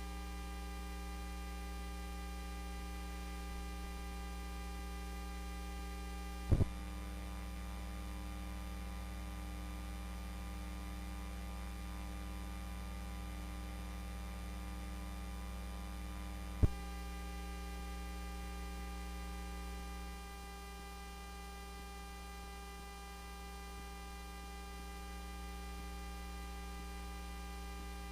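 Steady electrical mains hum with a buzz of many even overtones, broken by two sharp clicks about ten seconds apart.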